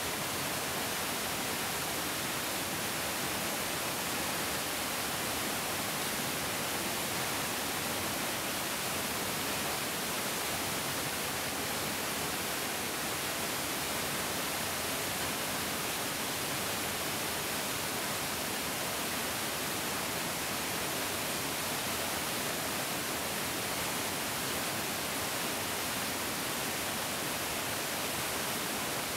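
Mountain stream flowing: a steady, even rush of water with no change in level.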